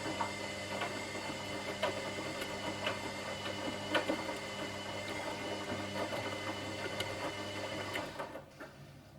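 Washing machine running: a steady motor hum with a knock about once a second as the drum turns, until the drum stops about eight seconds in.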